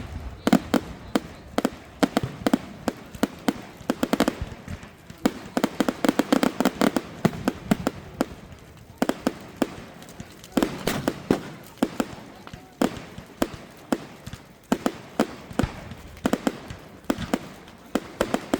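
Fireworks display: a rapid run of sharp bangs and crackles, coming in denser clusters every few seconds.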